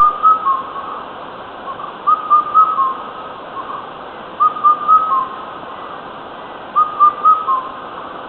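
Indian cuckoo calling its four-note whistled phrase, the last note lower, repeated four times about every two seconds over a steady background hiss.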